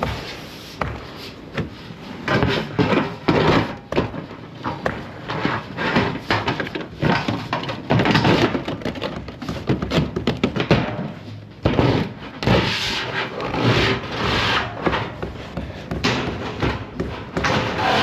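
Irregular knocks, thuds and scraping or rubbing, the clatter of hands-on installation work.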